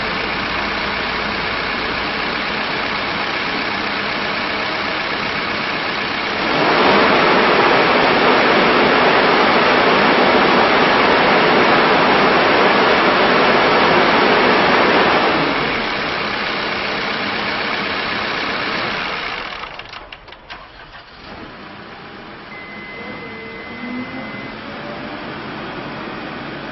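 Case 580N backhoe loader's diesel engine running at idle. It revs up to high speed for about nine seconds, then drops back to idle. About twenty seconds in, it is shut off, leaving a low background hiss.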